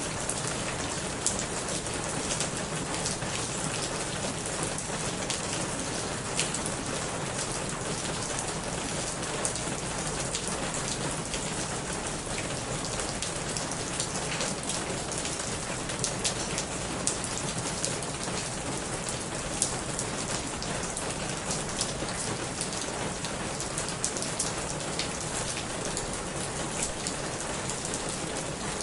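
Steady heavy rain falling on a corrugated roof and leaves, with water running off the roof edge and many sharp individual drop hits scattered throughout.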